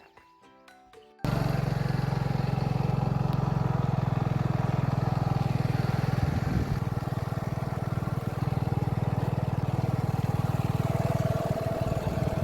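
Soft background music for about the first second, then an abrupt cut to a motorcycle engine running steadily and loudly, with a brief change in its note about halfway through.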